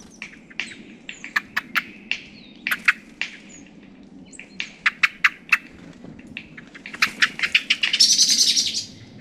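Small garden birds, a mix of tits and finches, giving many short, sharp call notes in quick series that come thicker near the end. A louder, harsh, rasping burst lasts about a second shortly before the end.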